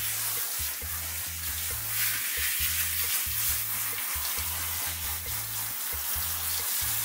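Handheld shower head spraying water onto a beagle's coat, a steady hiss of spray, with a background music bass line repeating underneath.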